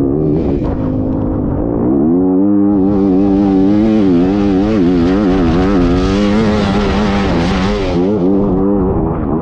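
Off-road race vehicle engine, most likely a motorcycle's, revving hard under load. Its pitch climbs about two seconds in, wavers up and down as the throttle works, and falls near the end. A loud rushing hiss rides over it through the middle.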